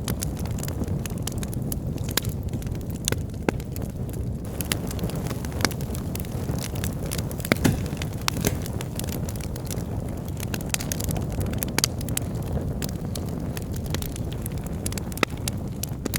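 Wood logs burning in a fireplace: a steady low rush of flames with irregular sharp crackles and pops, one louder pop about halfway through.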